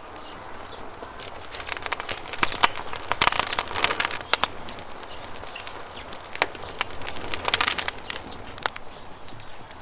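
Campfire crackling and popping: clusters of sharp snaps about one to four and a half seconds in and again around seven to eight seconds, over a steady hiss of running river water.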